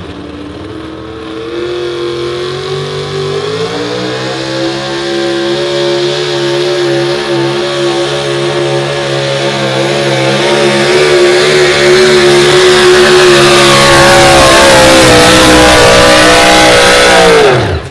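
Super stock 4x4 pulling truck's engine held at high revs through a pull. The revs climb about three seconds in, then hold while the sound grows steadily louder. Near the end the revs drop sharply and the sound falls away suddenly.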